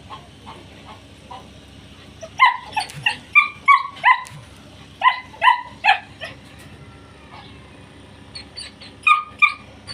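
German shepherd puppies yapping in high-pitched barks and yips. A run of about six sharp yaps comes about two seconds in, four more around five seconds, then a lull before another burst near the end.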